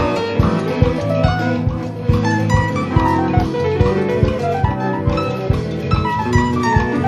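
Live jazz-rock band playing an instrumental: a guitar plays a lead line of quick notes over a drum kit.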